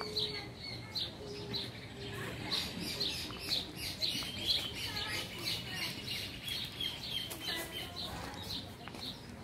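Small birds chirping: a dense stream of short, high calls repeated many times a second, several birds overlapping.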